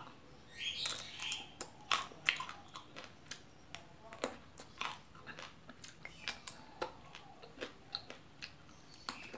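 A person chewing raw pea eggplants (cepoka) close to the microphone: a run of crisp crunches and wet mouth clicks, a few a second.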